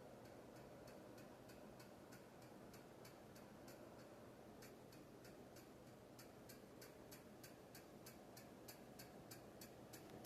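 Harbor Breeze Cheshire II ceiling fan running faintly, a low hum with an even, rhythmic ticking about four times a second.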